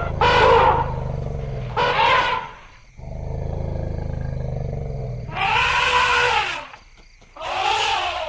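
Elephants trumpeting: four loud calls that rise and fall in pitch, with a low steady rumble in the gap between them.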